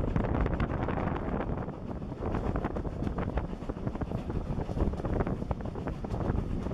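Wind buffeting the microphone at the open carriage window of a moving steam-hauled train, over the running rumble and irregular clatter of the coaches on the track.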